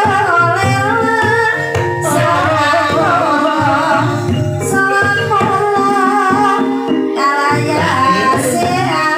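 Banyumasan ebeg gending: a woman's voice singing a wavering melodic line over gamelan accompaniment, with sustained metallophone tones and regular drum strokes.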